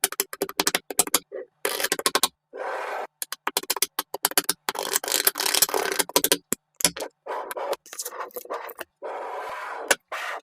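Small magnetic balls clicking, snapping together and scraping against each other in quick rattling runs. The sound breaks off abruptly again and again between short bursts.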